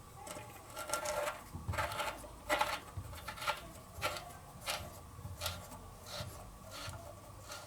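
Short scraping clicks, about one every 0.7 seconds, from hands and tools working the new threaded nipple on a hot water tank.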